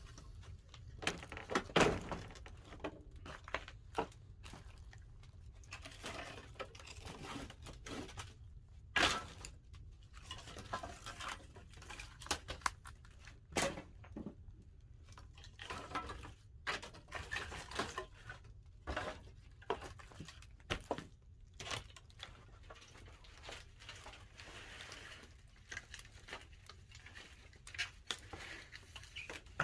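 Pine firewood burning in a wood-fired kiln, crackling and popping irregularly over a low steady rumble.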